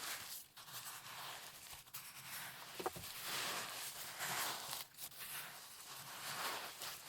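Close-miked gritty scraping and rustling, coming as repeated strokes, with a short faint tone about three seconds in.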